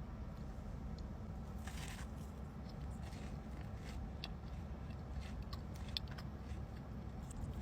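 Faint eating sounds: scattered small clicks and soft crunches of chewing over a low steady hum, with a brief louder rustle about two seconds in.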